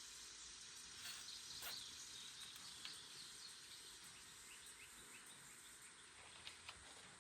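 Near silence: faint background hiss with a few faint clicks.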